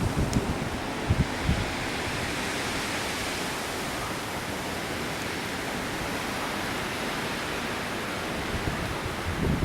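Wind blowing steadily outdoors, an even rushing hiss, with a few brief low buffets on the microphone about a second in.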